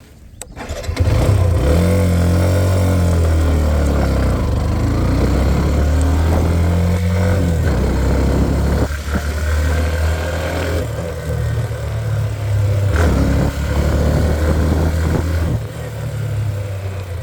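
Hero Xtreme 125R motorcycle's single-cylinder engine running under load on a hill climb. Its pitch steps up and down several times with throttle and gear changes.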